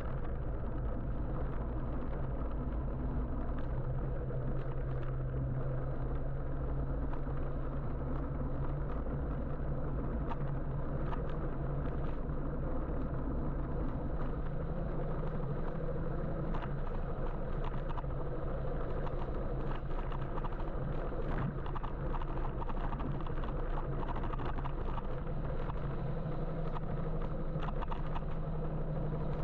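Steady traffic and road noise heard from an electric motorbike riding through city streets: a continuous low hum over a rumble, with scattered faint ticks.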